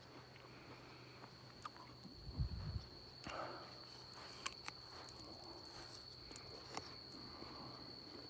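Insects giving a steady high-pitched trill at dusk, with scattered light clicks and a few low thumps about two seconds in.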